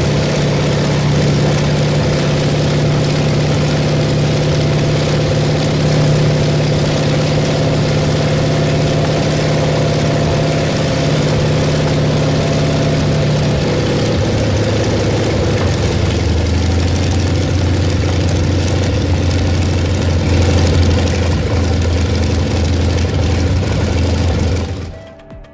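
A large old engine running steadily; about halfway through its speed drops and it settles to a slower, lower-pitched run. The sound cuts off abruptly near the end.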